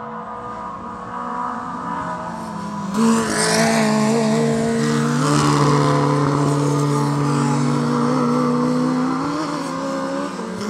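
Historic Formula Junior racing cars' engines running hard on the circuit, getting much louder about three seconds in and holding a fairly steady pitch with small rises and dips.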